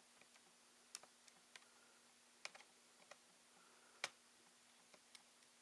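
Light, scattered clicks and taps of small laptop parts being handled and fitted, about eight in all, the sharpest about four seconds in, over a faint steady hum.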